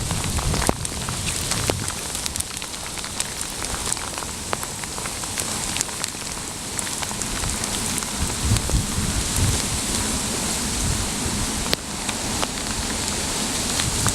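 Steady rain falling and pattering on surfaces, with scattered sharp drop ticks.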